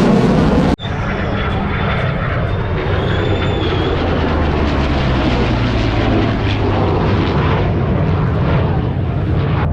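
Loud aircraft engine noise. It breaks off abruptly less than a second in, then a steadier low engine rumble carries on.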